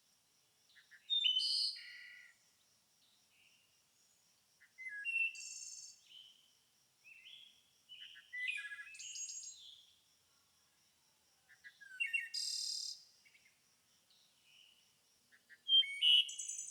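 Songbirds singing short, varied, warbling phrases every few seconds, over a faint, steady, high pulsing trill.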